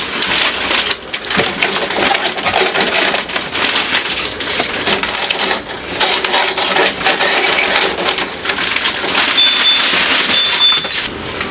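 Continuous clattering and rustling of household items being handled, with two short high beeps near the end.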